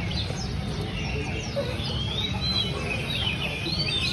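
Many caged songbirds chirping and whistling at once, short overlapping calls gliding up and down, over a steady low rumble.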